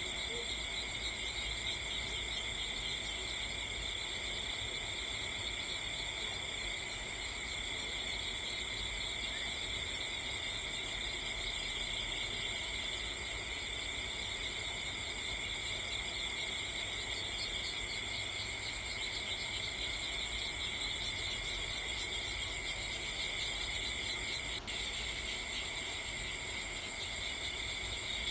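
Steady insect chorus with continuous high, shimmering chirring in several pitch bands, like crickets at night.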